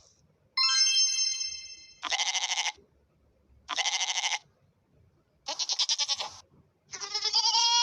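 A short chime rings out and fades, followed by three separate bleats of under a second each, with a quick wavering tremble like a goat's call, and then a tuneful jingle begins near the end.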